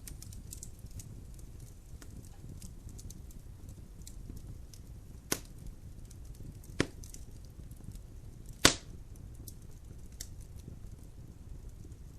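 Logs burning in a fireplace: a low steady rumble of flames with soft crackling ticks, and three sharp pops of the wood at about five, seven and nine seconds in, the last the loudest.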